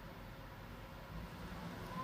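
Faint steady low hum and hiss of background noise, with no distinct event.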